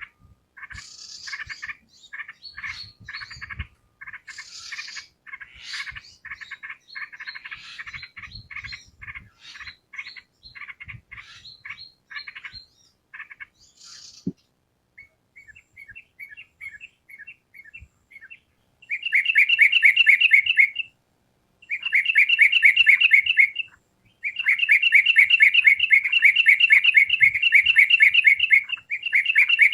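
Yellow-vented bulbul (trucukan) song: varied chattering chirps for about the first half, then after a short pause loud, very fast trills in repeated bursts of a few seconds each.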